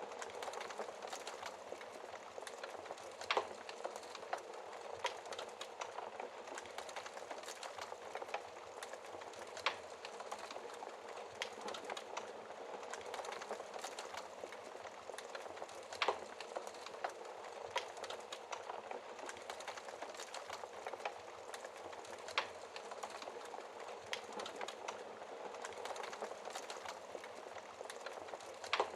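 Wood fire burning behind a glass screen: a steady hiss of flames with frequent small crackles and an occasional louder pop every few seconds.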